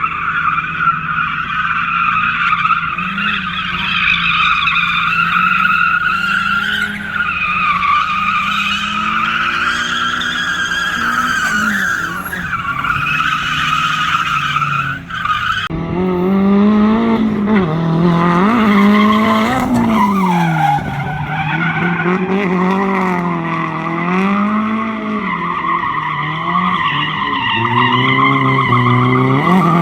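Drift car sliding: tires squealing steadily while the engine revs rise and fall. About halfway through, the engine note gets louder and swings up and down repeatedly as the throttle is worked.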